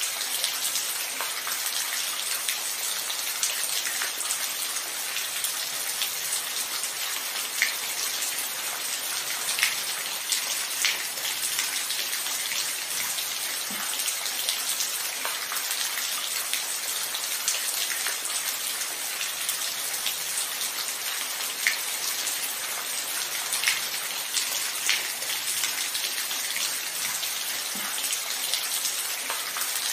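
Steady rain falling, an even hiss with scattered louder individual drops tapping throughout; no thunder.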